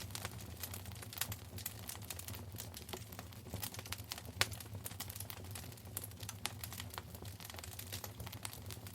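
Wood fire crackling in a fireplace: irregular sharp pops and snaps over a low steady rumble of burning, with a louder pop about four and a half seconds in.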